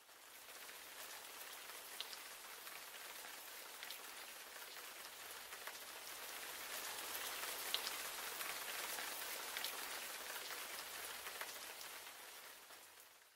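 Steady rain falling: an even hiss with single drops ticking now and then. It grows louder toward the middle and fades away near the end.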